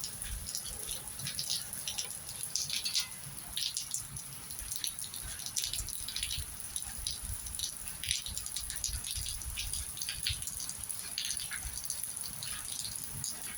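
Wet snow falling, with scattered irregular ticks and drips on surfaces over a low rumble.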